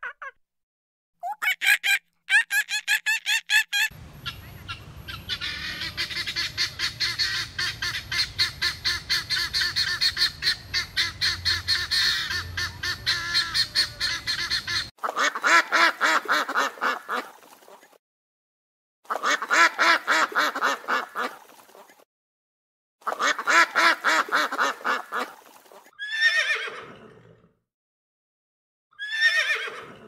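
Birds calling, goose-like honking and cackling, in a series of separate bursts of rapid pulsed calls with short silent gaps between them; one long run is followed by shorter bursts, and the last two calls fall in pitch.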